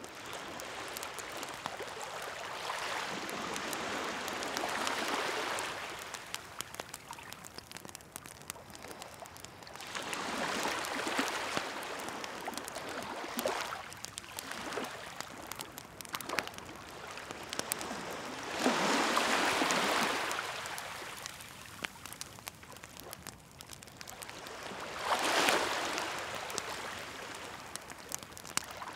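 Sea waves washing in and drawing back in slow swells, four of them, with the small irregular crackle of a wood bonfire throughout.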